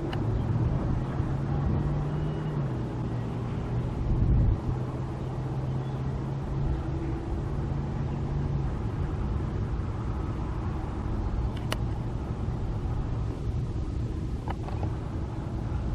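A steady low engine hum over outdoor background noise, with a brief louder swell about four seconds in.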